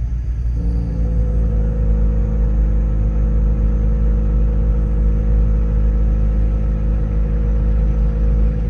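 Car exhaust droning while driving at low revs: a steady low rumble with a constant droning tone that comes in about half a second in and holds. The owner suspects an exhaust leak, perhaps from a bone of a run-over deer piercing the pipe.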